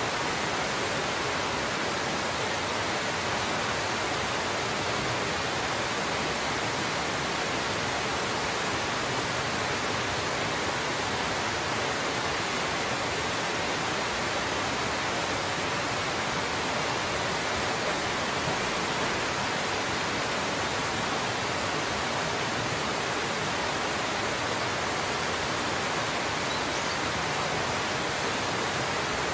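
Waterfall pouring steadily: an even, unbroken hissing rush of falling water that does not change.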